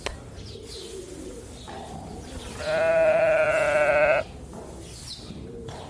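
Sheep bleating once, a wavering call of about a second and a half that starts about two and a half seconds in.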